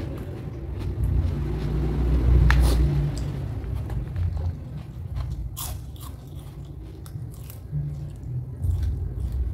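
A person chewing and crunching raw vegetables, with many irregular crisp crunches and clicks.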